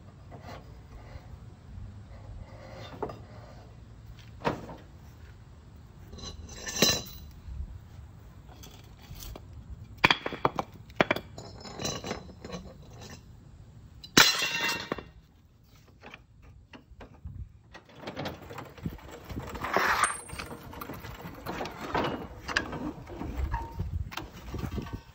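Irregular clinks and knocks of metal tools and parts being handled, with a few sharper strikes, the loudest about ten and fourteen seconds in, and a busier run of knocks near the end.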